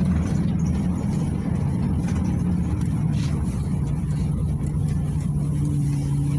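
PAZ 320402-05 bus's diesel engine running steadily, a low drone whose note settles lower partway through.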